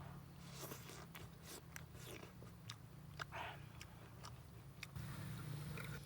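Close-miked eating: a person biting and chewing food, with irregular sharp clicks and a few short crunches.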